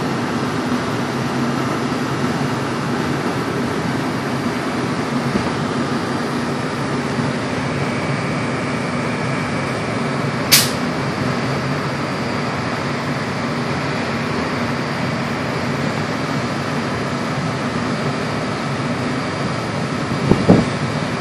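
Steady hum and fan noise from a standing NJ Transit commuter train, its coaches' air-conditioning running. About halfway there is one brief sharp hiss, and near the end a couple of low knocks.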